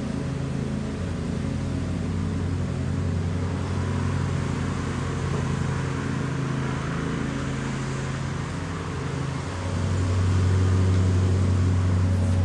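Small single-cylinder Briggs & Stratton flathead mower engine running steadily. It gets louder about ten seconds in.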